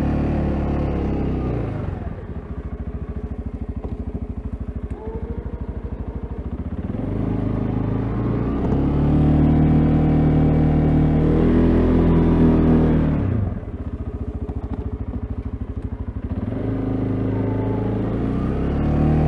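CFMoto CForce ATV's single-cylinder engine working while plowing snow: it runs at raised revs, drops back twice to a slow pulsing idle, and revs up again each time.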